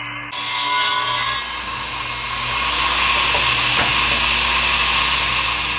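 Electric woodworking machine running with a steady motor whine while it trims the edge off a scrap board. The cut is loudest for about a second near the start, then the machine runs on more quietly until the sound cuts off suddenly.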